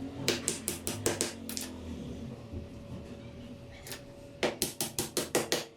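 A small hammer tapping on thin wooden sticks of a handmade bird cage: two quick runs of about seven light strikes each, roughly six a second, the second run near the end.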